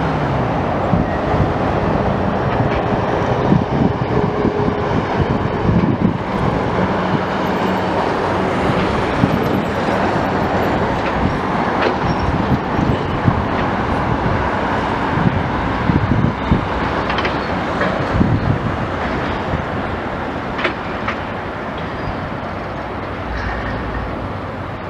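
Loud, steady mechanical rumble with irregular clanks and knocks throughout, fading slightly towards the end.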